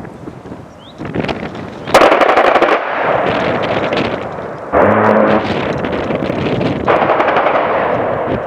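A-10 Warthog's GAU-8 Avenger 30 mm rotary cannon firing long ripping bursts. There are several bursts: the loudest starts about two seconds in, and others start about halfway and about seven seconds in, with the noise staying up between them.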